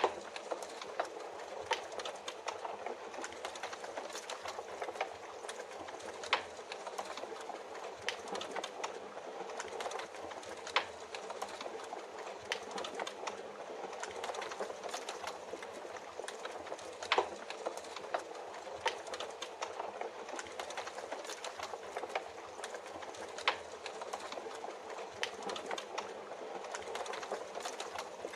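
Fireplace crackling, with irregular sharp pops every second or so over a steady hiss of falling rain.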